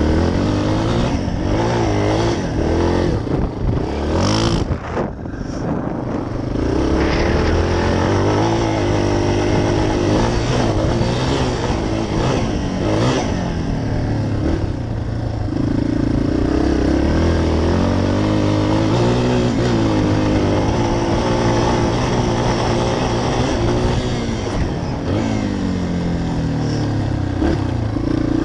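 Dirt bike engine revving as it rides through sand, its pitch rising and falling again and again with the throttle and gear changes. It eases off briefly about four seconds in.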